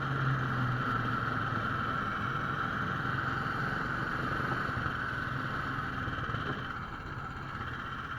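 The 17 hp Lifan single-cylinder four-stroke engine of a Laika 2M motorized sled running steadily under way, easing off slightly near the end.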